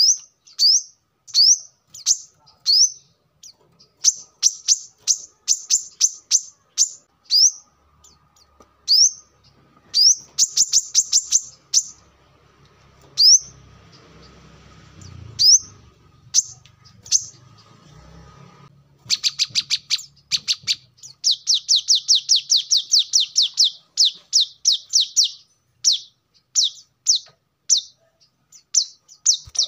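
Brown-throated sunbird (kolibri kelapa) calling: sharp, high, upward-sweeping chirps, some single and some in fast rapid-fire runs of about ten a second. There is a pause of a few seconds in the middle where only a faint low rumble is heard.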